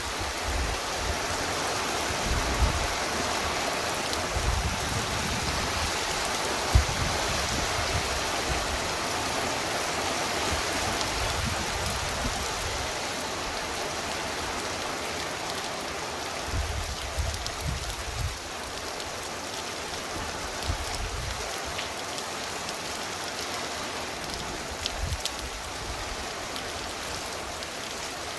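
Heavy, torrential rain falling steadily, with low rumbles coming and going underneath and a single sharp tap about seven seconds in.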